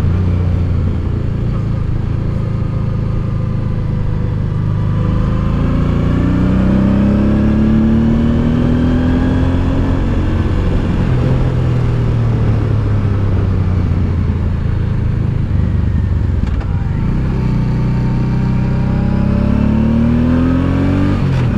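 Honda Deauville V-twin motorcycle engine running under load, its note rising as it accelerates from about five seconds in and again near the end, over steady wind and road noise.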